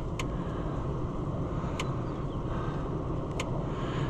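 Electric fence pulsing: three sharp clicks about a second and a half apart, over the steady low rumble of an idling vehicle engine.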